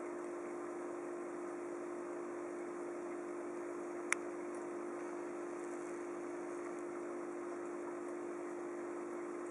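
Steady hum from aquarium equipment over an even hiss, with one sharp click about four seconds in.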